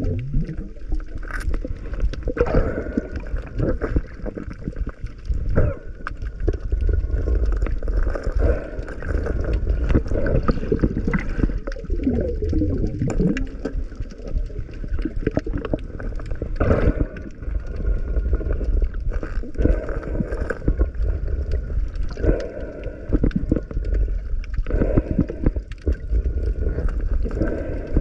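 Underwater sound of water gurgling and bubbling around the camera, with scattered small clicks and a few wavering bubble sounds.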